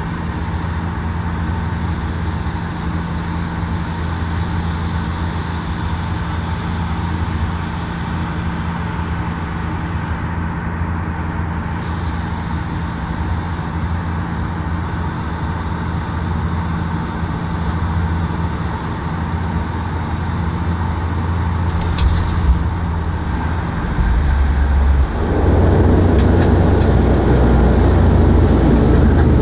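Cabin drone of a Bombardier Dash 8 Q400 turboprop's engines and propellers on landing, a steady low hum. Near the end there is a sharp bump, and then the noise swells into a louder, rougher rumbling roar as the airliner touches down and rolls out on the runway.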